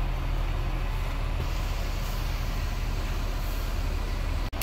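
Bus engine idling, a steady low rumble that breaks off for an instant near the end.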